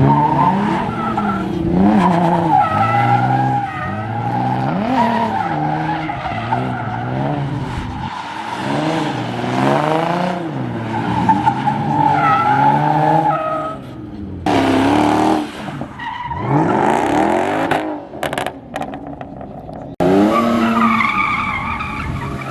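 Car engine revving hard again and again, its pitch rising and falling every second or so, with tyres squealing and skidding on pavement, as a car does burnouts or donuts.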